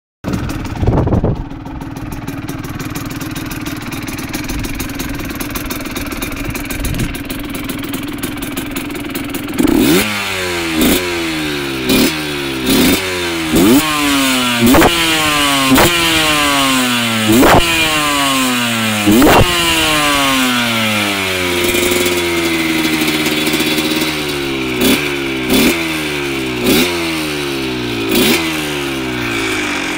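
A 125 cc two-stroke motorcycle engine idling, then blipped by the throttle from about ten seconds in: a run of quick revs, roughly one a second, each shooting up and falling back, with a short steadier hold partway through.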